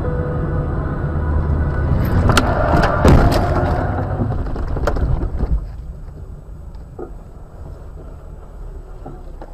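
Vehicle engine running with a low rumble, broken by a cluster of sharp bangs and crunches from about two to three and a half seconds in and another bang near five seconds. After that it is quieter.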